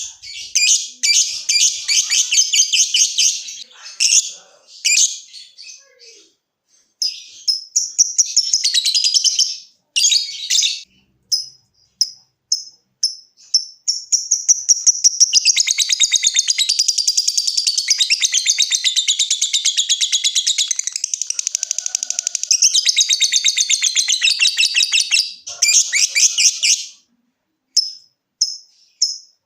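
A lovebird calling: first quick bursts of sharp, rapid chirps, then separate short ticking notes (ngetik). About halfway in these run into one long, unbroken, rapid chattering trill (ngekek) of some thirteen seconds, the long chatter prized in a bird in full song, before single ticking chirps return near the end.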